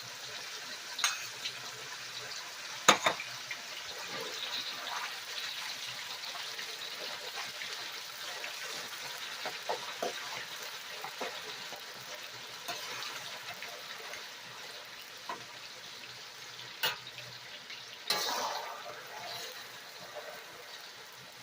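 Sliced marinated chicken frying in hot oil, a steady sizzle, with a few sharp knocks of a utensil against the pan, the loudest about three seconds in, and a louder surge of sizzling near the end as the meat is stirred.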